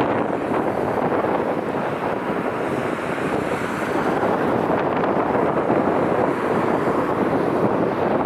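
Strong wind buffeting the microphone: a steady, fairly loud rushing noise.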